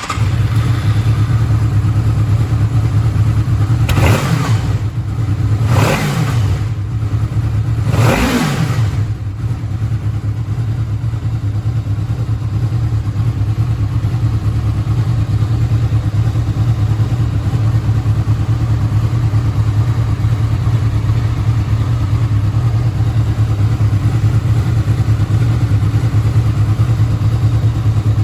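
Honda VFR800F's V4 engine idling, revved three times in quick blips about 4, 6 and 8 seconds in, each rising and falling back, then settling into a steady idle.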